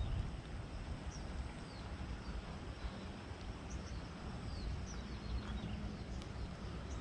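Small birds chirping in short, high, downward-sliding notes, several scattered through, over a steady low rumble.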